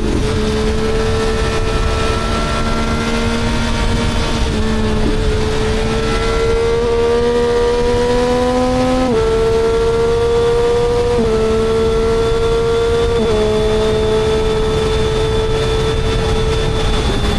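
Three-cylinder engine pulling under load through several upshifts: its pitch climbs steadily within each gear and drops at each shift, then holds fairly steady near the end.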